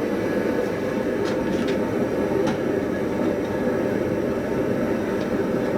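Forge running with a steady rushing noise while the anvil's wrought-iron body heats toward a forge-welding heat, with a few faint crackles on top.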